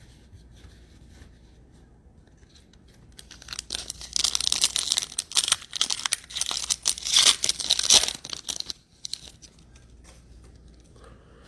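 A trading-card pack's foil wrapper being torn open and crinkled. After a few quiet seconds it goes in a run of rips and crackles that stops just before the last few seconds.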